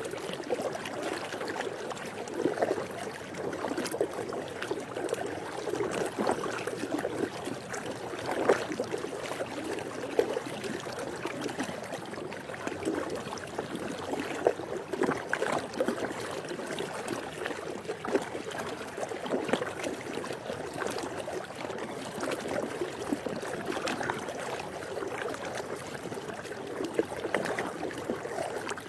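Swimming pool water lapping and splashing continuously: a steady wash of small splashes and trickles with no let-up.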